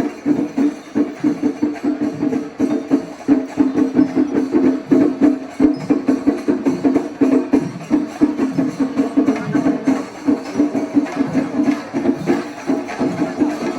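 Traditional Kerala percussion ensemble playing: fast, continuous drumming with jangling cymbals.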